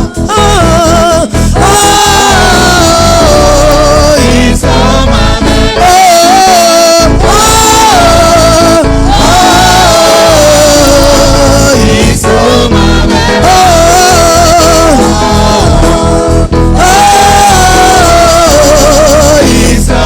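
Live gospel praise music: sung vocals with vibrato over a band with a steady bass and drum beat.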